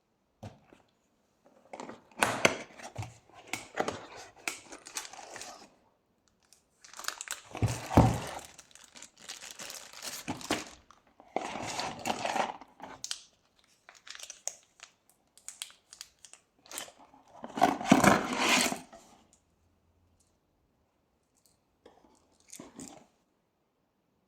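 Irregular bursts of crinkling and scraping from hand work on a brake part, a second or two each with short pauses between. The loudest bursts come about 8 and 18 seconds in.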